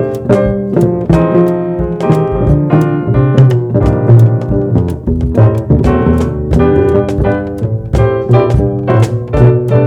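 Live jazz trio playing: keyboard, plucked double bass and drum kit with steady cymbal strokes.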